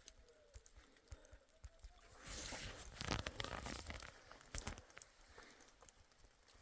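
Rustling and crunching with scattered clicks, loudest for about two seconds in the middle.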